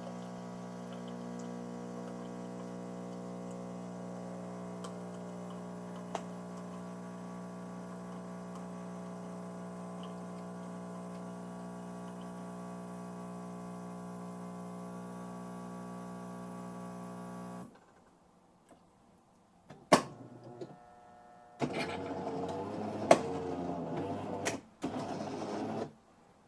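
Jura C9 automatic coffee machine running with a steady mechanical hum that cuts off about two-thirds of the way through. After a short pause come a few sharp clicks and several seconds of louder mechanical whirring and rattling from the machine, just before it calls for the water tank to be refilled.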